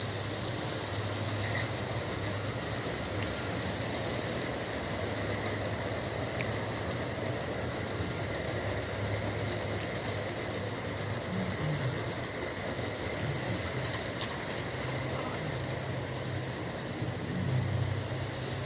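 Bachmann G scale 4-6-0 model locomotive running steadily around the track with a long train: a low motor hum over the rolling of many wheels on the rails.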